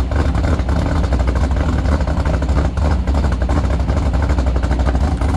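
Built 302 small-block Ford V8 with a Trick Flow stage 4 roller cam and Holley Sniper EFI, idling steadily after a cold start. Its exhaust runs through short headers, an X-pipe and Dynomax Race Bullet mufflers, giving a deep, even rumble with no revving.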